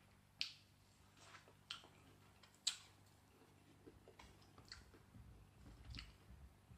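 Faint wet mouth clicks and smacks of someone chewing food with the lips closed: a few sharp ticks about a second apart, then a soft low rumble near the end.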